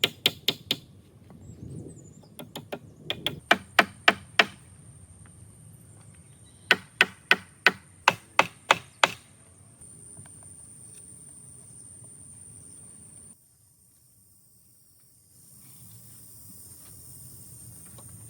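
Two quick runs of sharp knocks, about four or five blows a second, like a hammer striking. One starts about two seconds in and the other about seven seconds in, each lasting around two seconds.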